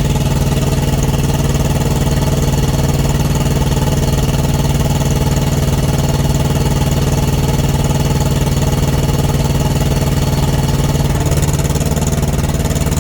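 Thermo King TriPac Evolution APU's small diesel engine running steadily after a start, on test for intermittent shutdowns and no-starts. About eleven seconds in its note changes as the unit goes to throttle up.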